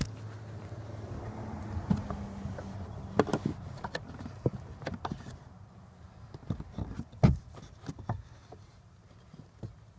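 Scattered knocks and clicks of a piece of wood being fitted between a car's clutch pedal assembly and the footwell side wall, the loudest knock about seven seconds in. A low steady hum runs under the first three seconds.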